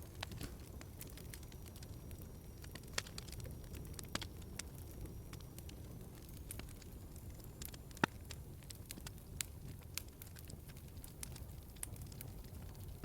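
Log fire crackling in a fireplace: a steady low rumble of flames with scattered sharp pops and snaps, the loudest about eight seconds in.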